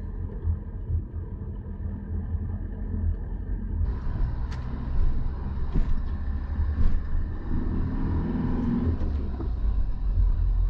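Campervan driving on the road: a steady low rumble of engine and tyres, with more hiss joining about four seconds in.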